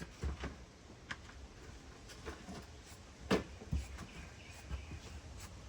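A few light clicks and knocks of handling, the loudest about three seconds in, over low rumbling bumps.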